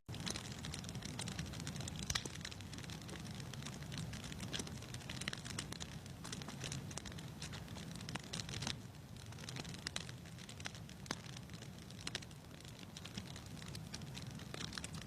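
Wood fire crackling in a fireplace: a steady low rumble with irregular pops and snaps throughout.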